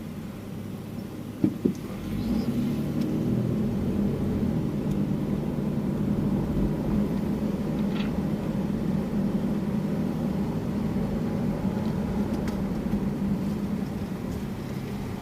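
Car engine and road noise heard from inside the cabin while driving, the engine picking up about two seconds in and then running steadily. A couple of short knocks sound just before it picks up.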